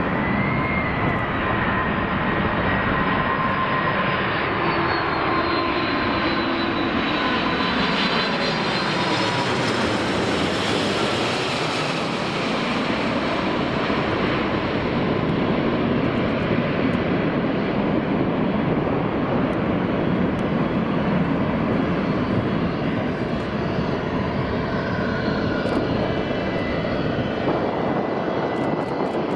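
A three-engined jet airliner flying past: a steady jet roar with a whine that slowly drops in pitch as it goes by, the high hiss swelling to its peak about ten seconds in and then easing off.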